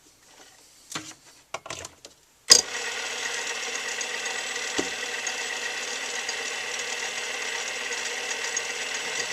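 A few small clicks and knocks of handling, then about two and a half seconds in a lathe's motor switches on with a sharp click and runs steadily with a whine, ready for a chamfering cut with a threading tool bit.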